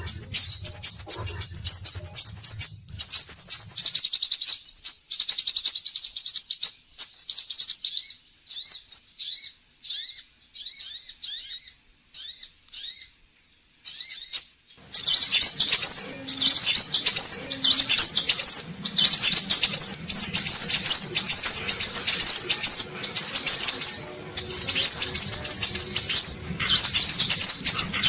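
Scarlet minivet (sepah raja) singing: rapid, high chirps and trills. About a third of the way in the song breaks into short separate phrases with pauses, then from about halfway on runs as a dense, continuous stream over faint background noise.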